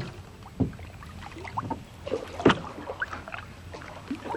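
Canoe paddling: paddle strokes in the water with a few sharp knocks, the loudest about two and a half seconds in.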